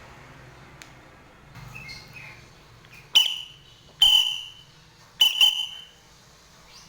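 White-breasted woodswallow (kekep babi) calling: a few faint chirps, then four short, loud calls, the last two close together.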